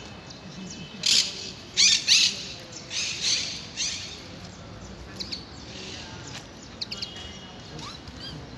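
A bird squawking: a run of about six loud, harsh calls starting about a second in and lasting some three seconds, then a few short, fainter chirps.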